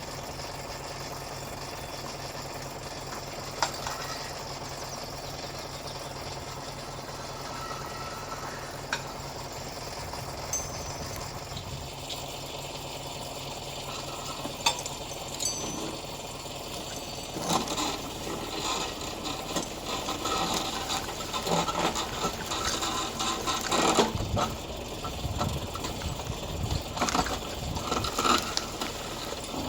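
An engine running steadily, with a few sharp knocks and, in the second half, irregular clattering and banging.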